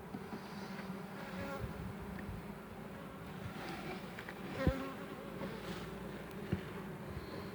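Honeybees buzzing steadily around an open hive, with a single knock a little past the halfway point.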